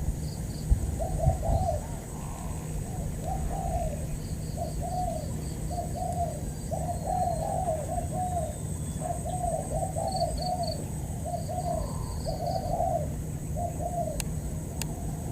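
Spotted doves cooing in a long run of short repeated phrases, with faint quick high-pitched chirps and a steady high whine behind them.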